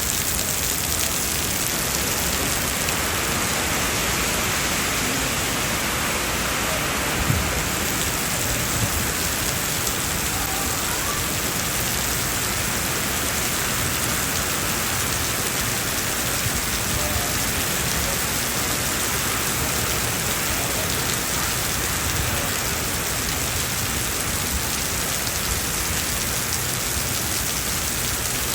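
Heavy rain falling steadily on city pavement, a dense even hiss, with a single brief knock about seven seconds in.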